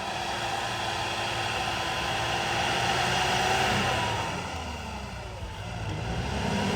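Mitsubishi L200 pickup's engine running in snow, building up about three seconds in and easing off around five seconds in before picking up again.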